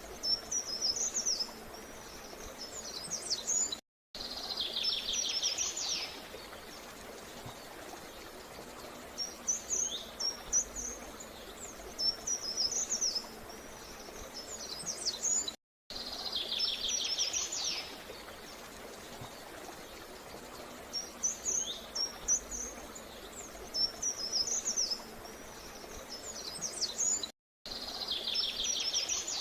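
Songbirds chirping and singing in quick high phrases, with a buzzy rapid trill coming in after each pause, over a steady outdoor background hiss. The same stretch of song repeats about every twelve seconds, each repeat starting after a brief cut to silence.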